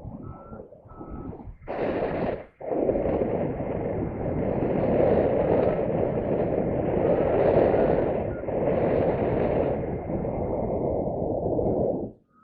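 Wind rushing over the microphone, loud and steady from about two seconds in until just before the end, with a brief break near the start of the gust. Short high beeps repeat before the wind sets in.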